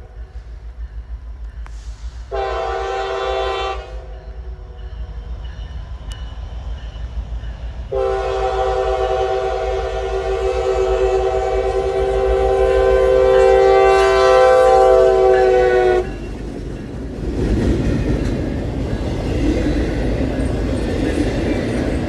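Multi-chime air horn of a Norfolk Southern SD70ACe locomotive, leading a westbound freight. It gives a short blast about two seconds in, then a long blast of about eight seconds. When the horn stops, the loud rumble of the passing train takes over.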